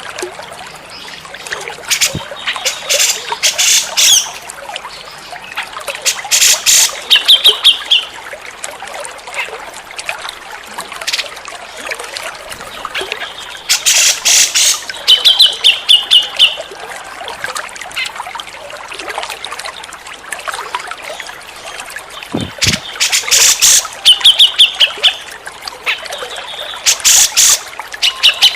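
Cucak jenggot (grey-cheeked bulbul) calling in about five loud bouts of rapid notes, several ending in a short trill. A steady trickle of water runs underneath.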